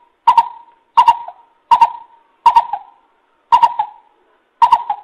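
Coucal (bubut) calling: a series of six loud hooting notes, each about 0.7 to 1 second apart.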